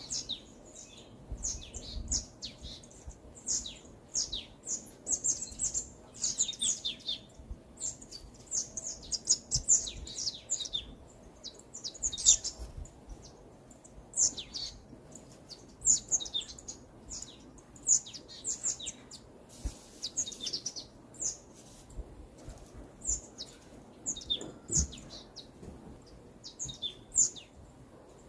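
Songbirds singing and chirping in a forest, in short high chirps and quick falling phrases that follow one another every second or so, with a faint low background rumble.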